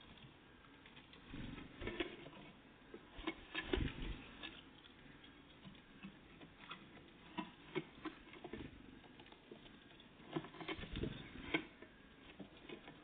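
Irregular light taps and scrabbling knocks of great tits and blue tits pecking and landing at a feeder close to the microphone, in uneven clusters, a few a second at most.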